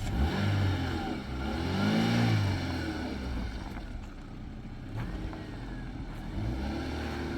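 Vehicle engine running just after starting, revved up and down several times, with the biggest rise and fall about two seconds in and another near the end.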